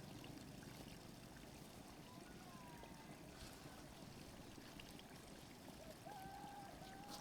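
Near silence: a faint, steady outdoor rush of background noise, with two faint whistled calls, a short one about two seconds in and a longer wavering one near the end.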